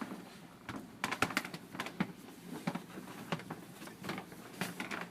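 Scattered light clicks and knocks at an irregular pace, with a faint room hum underneath.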